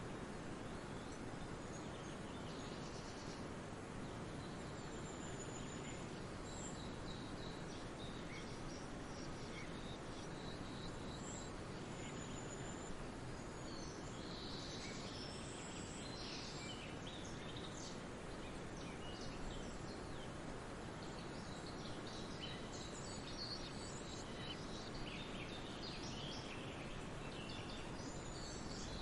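Forest ambience: a steady, even rush of distant water and wind, with small birds chirping and calling in short high phrases that become busier about halfway through.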